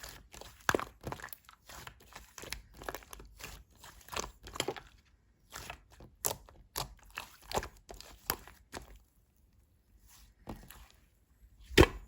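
Slime being squeezed and worked by hand, giving irregular sticky clicks and pops, a few each second. The handling goes quieter briefly near the end, and a louder pop comes just before it stops.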